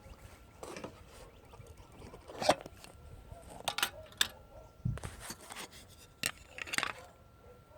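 Footsteps walking, a string of uneven scuffs about half a second to a second apart.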